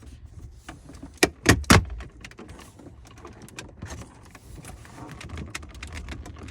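Plastic dashboard trim being pried off with a plastic pry tool: three sharp snaps close together about a second in as the panel's retaining clips let go, then light plastic clicking and rattling.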